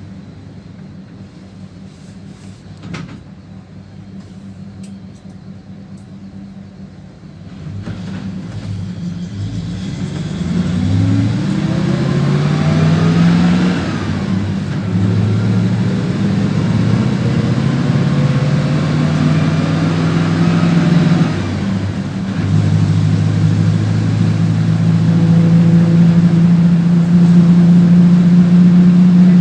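PAZ-32054 bus engine idling, then pulling away and accelerating: the engine note climbs, dips at a gear change about 14 seconds in, climbs again, dips at a second shift about 22 seconds in, then holds steady and louder while cruising. Heard from inside the bus.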